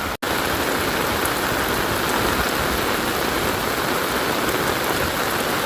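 Steady heavy rain, an even hiss with scattered drop ticks, after a split-second drop-out at the start.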